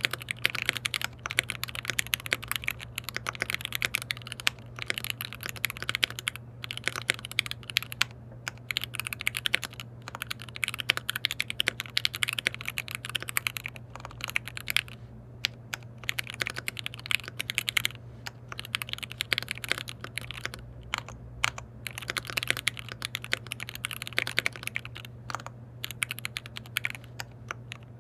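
Steady fast typing on a custom KBD67 Lite R3 mechanical keyboard with lubed linear switches, keys clacking in quick runs broken by brief pauses about halfway through and again near the end. A faint steady low hum lies underneath.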